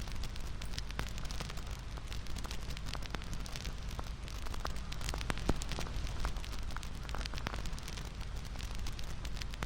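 Wood fire crackling: a steady low rumble and hiss with many irregular sharp pops and snaps.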